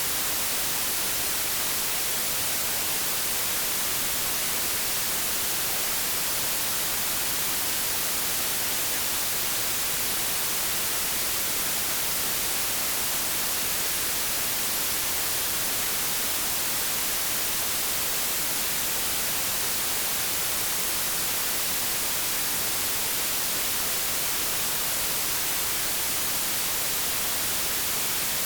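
Steady white noise static, an even hiss strongest in the highs, with no change.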